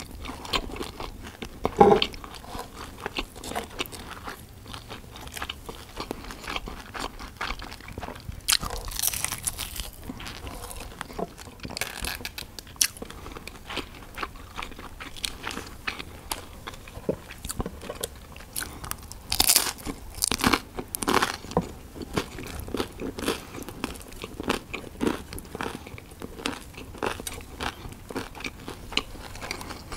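Close-miked crunching bites and chewing of a crumb-coated fried chicken schnitzel, with many short sharp crackles and a few louder crunching bursts.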